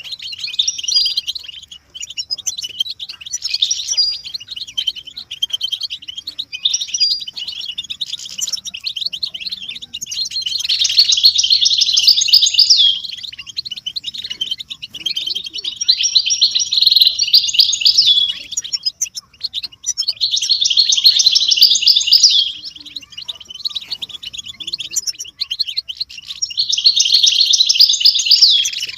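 European goldfinches twittering and singing together in a dense, rapid, high chatter that swells into louder bouts of two to three seconds several times, the excited group chatter used to stimulate male goldfinches into song.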